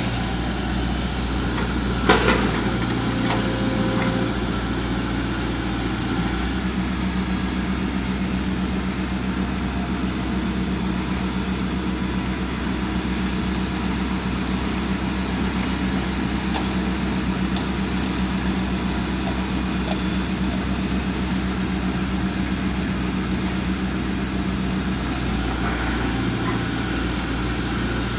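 Heavy diesel engine of construction machinery running steadily; its note changes about six seconds in and changes back near the end. A sharp metallic knock sounds once about two seconds in.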